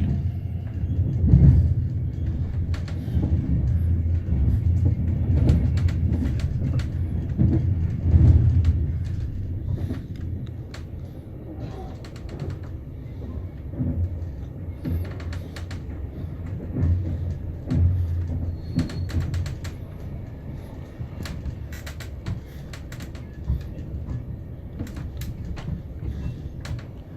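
Intercity train running along the track, heard from inside the carriage: a steady low rumble with scattered light clicks, louder for the first ten seconds or so and then quieter.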